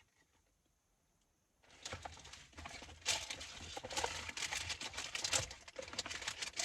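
Packaging rustling and crinkling as a purchased item is handled, starting after about a second and a half of dead silence.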